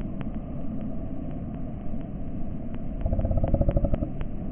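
A motor vehicle's engine running nearby as a low rumble, swelling with a pulsing beat about three seconds in before easing off.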